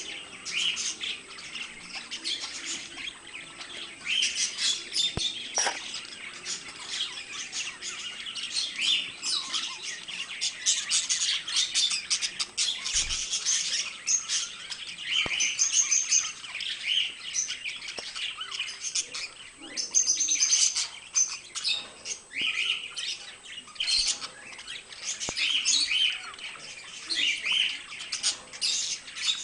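Budgerigars chirping and warbling continuously in fast, busy chatter, with occasional squawks and a few sharp clicks.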